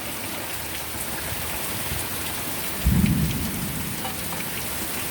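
Rain coming down hard and steady, with a brief low clap of thunder about three seconds in.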